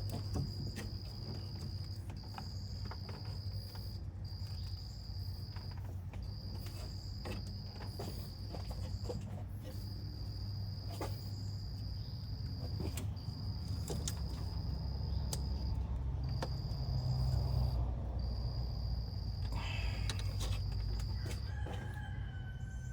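Scattered light clicks and knocks of hand work as the accessory belt is worked back onto its pulleys, over a steady low rumble. A high, thin insect-like trill repeats throughout in stretches of one to two seconds with short breaks.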